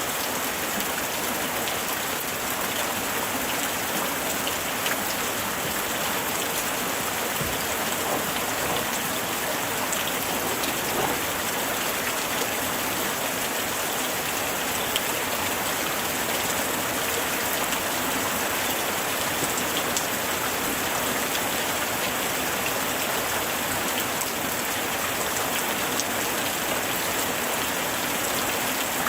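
Light rain falling steadily, with a dense patter of individual drops hitting surfaces.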